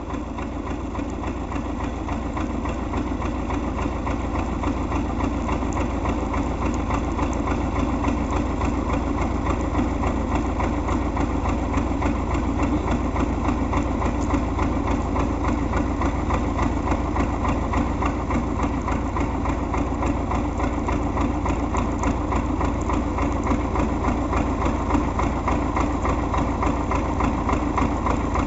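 MTZ tractor's diesel engine running steadily as it hauls a round hay bale through deep, wet snow. It grows louder over the first several seconds as it comes closer, then holds steady.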